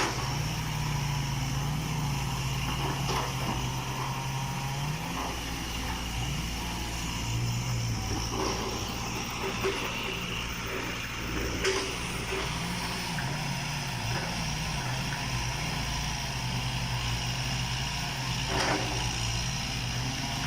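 Hitachi EX120-1 excavator's diesel engine running steadily, its pitch dipping and rising as it works, with a few sharp knocks.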